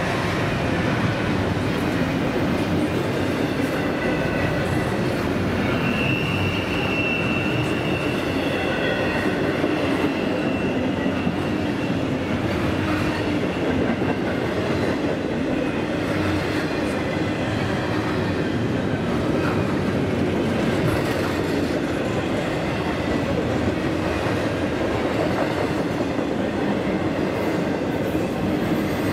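Train running past on the rails: a steady rumble and wheel clatter, with a thin, high wheel squeal for a couple of seconds about six seconds in.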